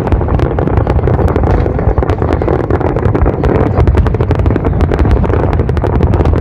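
Dense barrage of aerial firework shells bursting: a continuous heavy rumble of booms with rapid crackling on top.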